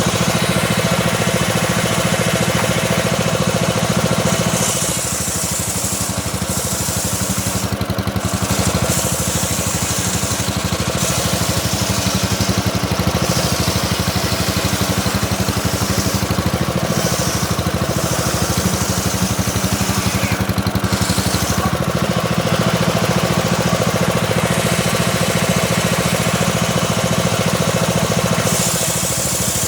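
Homemade engine-driven circular saw running steadily while slowly ripping a small teak log. The engine's drone runs under a hiss from the blade in the wood that grows and fades in stretches.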